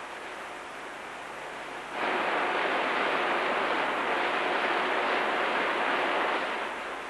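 Rushing of cooling water being turned on through a marine diesel engine's pipework. It grows suddenly much louder about two seconds in and eases off near the end.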